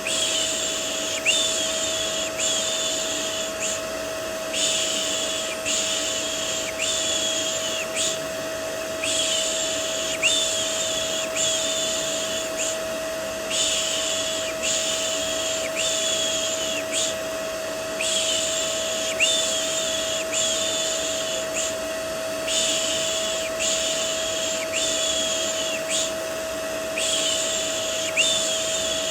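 Vacuum cleaner running steadily with a constant hum, used as white noise to settle a baby, under a repeated 'shh' shushing sound. The shushes come about once a second in runs, with a short pause every four to five seconds.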